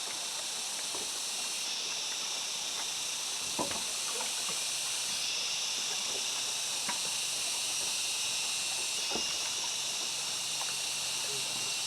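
A steady, high-pitched chorus of forest insects, with a few faint ticks or taps.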